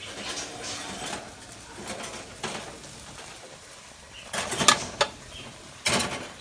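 Metal baking pan and oven rack clattering as a pan is slid into the oven, with two loud clatters about four and a half and six seconds in.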